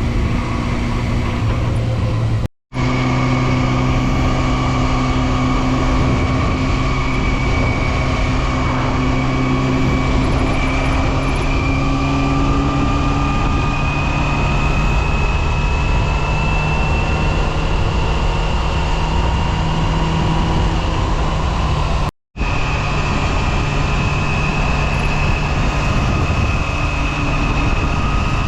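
Yamaha FZR250's inline-four engine running at steady high revs on the move, its pitch creeping slowly upward, over a constant rush of wind. The sound drops out for an instant twice.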